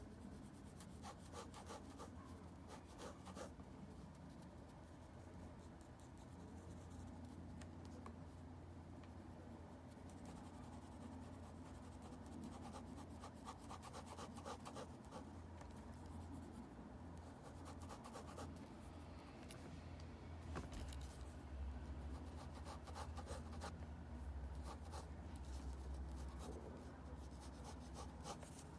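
Faint scratching of drawing strokes on paper, in quick runs of short strokes, over a steady low hum.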